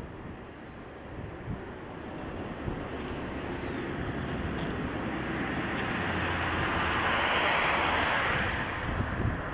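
A vehicle passing close by: a steady rush of noise that builds over several seconds, is loudest about eight seconds in, then falls away quickly.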